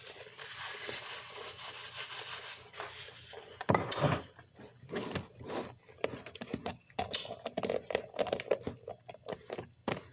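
Close-up crunching and chewing of fresh fruit: a long scratchy crunch for the first few seconds, a sharp knock just before halfway, then irregular crackly chewing.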